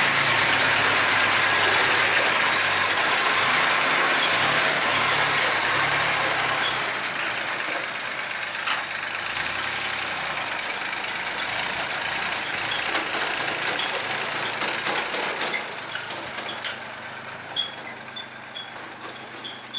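Old Kubota tractor's diesel engine running, its low note wavering, then fading gradually over the whole stretch. A few short, sharp high ticks come near the end.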